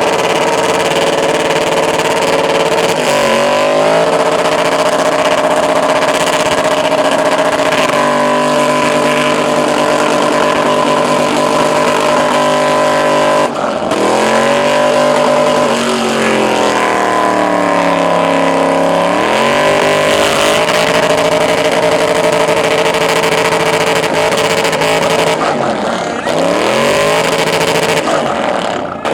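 LS V8 in a 1984 Chevrolet C10 held at high revs through a burnout, the revs sagging and climbing back several times, with the longest drop and recovery about halfway through.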